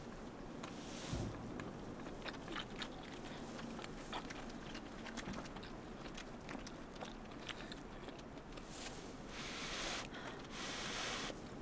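Close-miked chewing and biting, with many small crunchy clicks and a few short stretches of hiss near the end.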